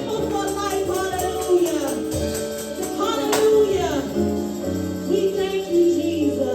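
Live gospel worship music: singing over a church band, with a tambourine jingling throughout.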